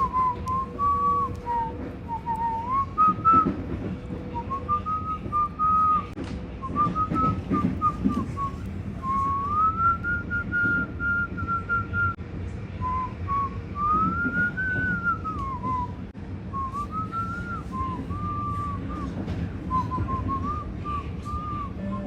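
A person whistling an improvised tune by mouth: short phrases of notes that rise and fall, with brief pauses between them.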